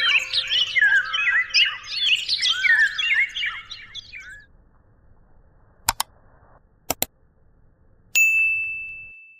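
Rapid, dense bird chirping that stops about four and a half seconds in, followed by a few sharp clicks and then a single bell-like ding that rings out and fades.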